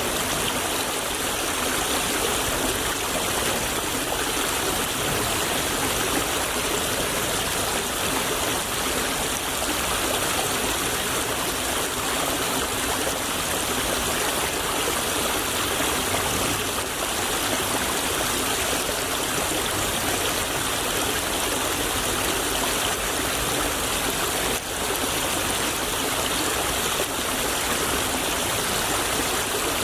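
Shallow stream of water running and babbling steadily over its bed.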